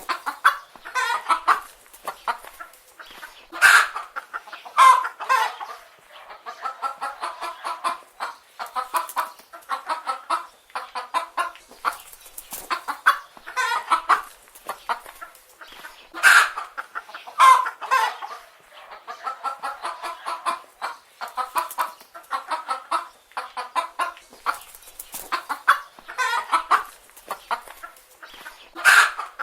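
A flock of chicken hens clucking continuously, many calls overlapping, with louder, sharper squawks every few seconds.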